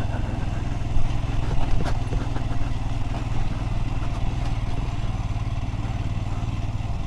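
Motorcycle engine running steadily under way at a cruise, its even firing pulses carried over road and air noise.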